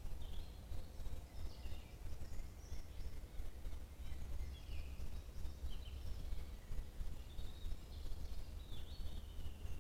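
Several songbirds singing in a spring forest, with short chirping phrases coming every second or so. A steady low rumble runs underneath.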